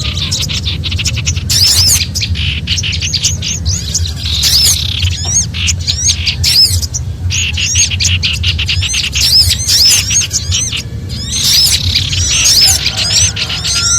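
Several small songbirds giving rapid, agitated alarm chatter, the distressed mobbing calls used as a bird lure: dense strings of high chirps and slurred scolding notes, with brief lulls about seven and eleven seconds in, over a steady low rumble.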